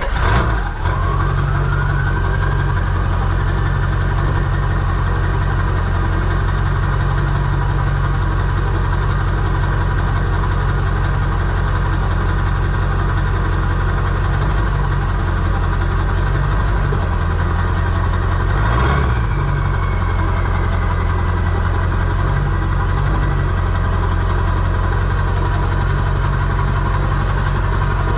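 Ford Super Duty diesel engine running steadily, with a knocking diesel clatter. A whine rises over the first couple of seconds. About two-thirds of the way through there is a short sharp sound, after which a whine winds slowly down.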